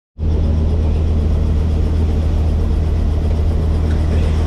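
Helicopter engine and rotor running: a loud, steady low drone with no change in pitch.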